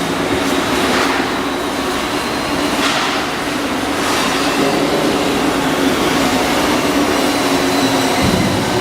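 Steady machinery noise of shipbuilding work: a constant hum with a few faint knocks.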